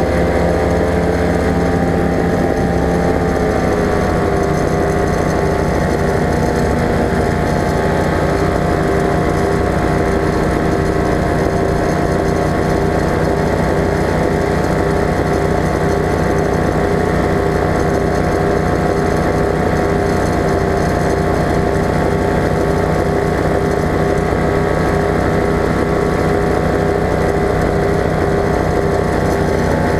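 Ultralight aircraft engine running at high power, its pitch rising over the first few seconds and then holding steady.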